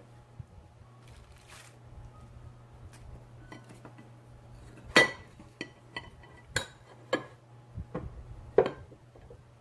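Utensils clinking and tapping against dishes, a run of sharp clinks in the second half, over a steady low hum.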